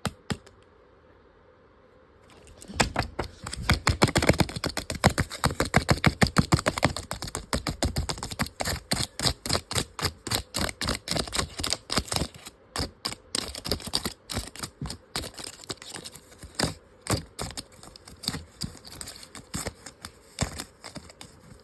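Paper-craft model being worked by hand: a rapid, uneven run of sharp clicks and crackles begins about three seconds in. It is densest for the next few seconds, then thins to scattered clicks.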